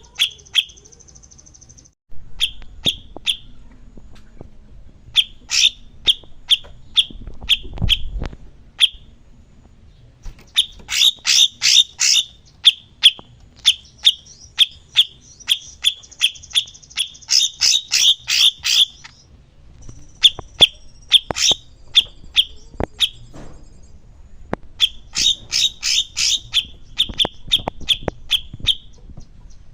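Cucak cungkok song: runs of loud, sharp chirps repeated about three times a second in several bursts, with a buzzy high trill between some of them.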